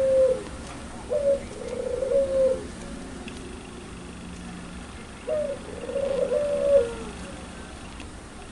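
Puter pelung dove cooing: low, drawn-out coo phrases, each opening with a short rising note, one ending just as the clip begins, another from about a second in and a third from about five seconds in.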